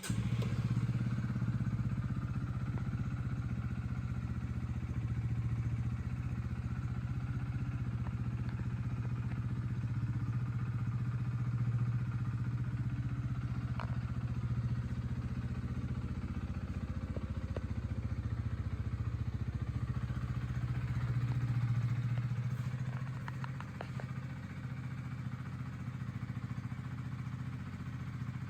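Honda CB125R's 125cc single-cylinder four-stroke engine idling steadily, freshly started. It gets a little quieter about 23 seconds in.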